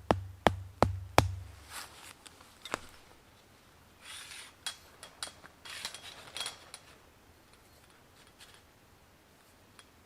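A quick run of sharp knocks, about three a second, ending about a second in, then several bouts of scraping and rustling with a faint metallic ring.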